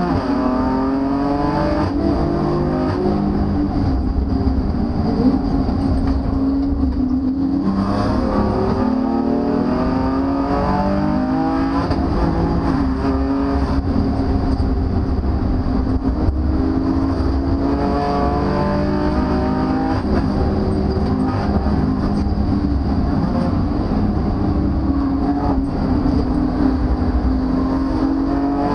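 DM Performance-tuned BMW M4's twin-turbo straight-six, heard from inside the cabin, pulling hard through the gears: its note climbs in pitch, drops back at each shift, and eases briefly about seven seconds in before climbing again.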